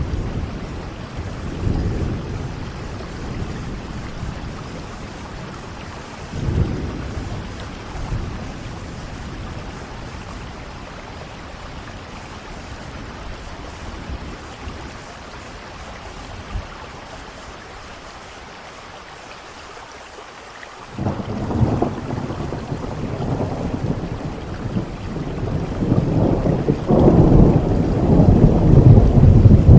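Steady rain falling with rolling thunder: low rumbles early on fade away, then a new peal breaks out suddenly about two-thirds of the way through and builds to a loud rumble near the end.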